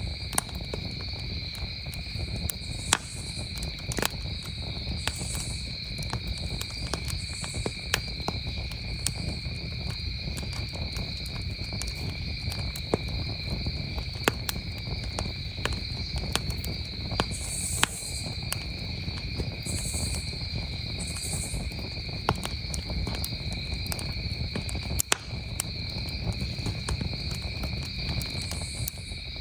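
Wood campfire crackling, with sharp pops at irregular intervals, over a steady chorus of crickets chirping at two high pitches and a low steady rumble underneath.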